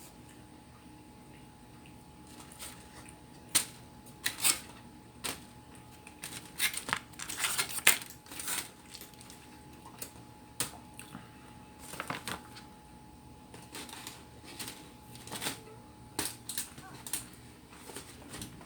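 Irregular clicks, clinks and clatters of tableware and food containers being handled on a table, scattered through the whole stretch with a sharper cluster about four to eight seconds in.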